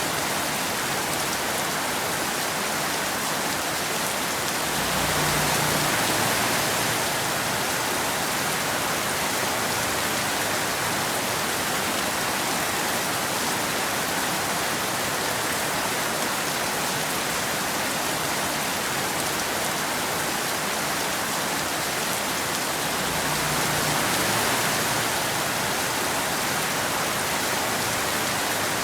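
Steady rain, an even hiss, that swells briefly louder twice: about five seconds in and again later in the stretch.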